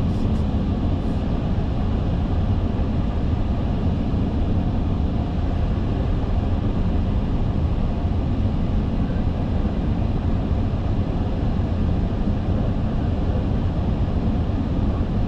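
Steady, even rumble of an Airbus A380 flight deck in flight on approach, from airflow, engines and air conditioning heard inside the cockpit.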